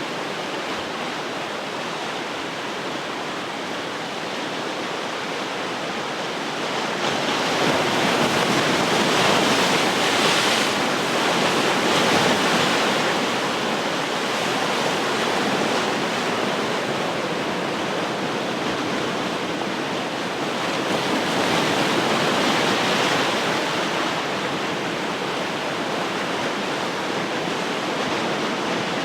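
Ocean waves breaking and washing on the shore in a steady rush of surf, swelling into two louder breakers, one about a third of the way in and another around three quarters through.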